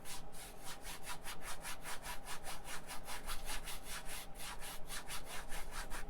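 Paintbrush scrubbing oil paint back and forth across a canvas in rapid, even strokes, about five or six a second, blending the sky colour.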